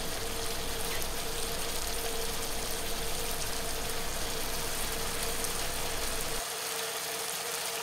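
Ground masala frying in oil in a pan, a steady sizzle, with a low steady hum underneath that drops out about six and a half seconds in.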